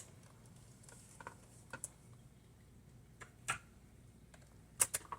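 A few scattered light clicks and taps from handling the laptop's plastic case and hinge parts, a couple of them in quick pairs.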